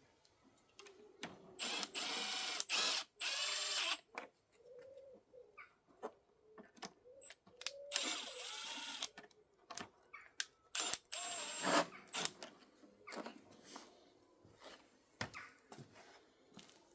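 Cordless drill-driver driving small screws into a uPVC window frame in four short runs of about a second each, with a steady high whine while it spins. Clicks and knocks of handling come between the runs.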